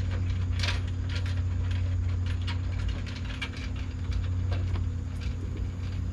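Hand ratchet clicking in short irregular runs as nuts are run onto the wing's mounting studs, over a steady low hum.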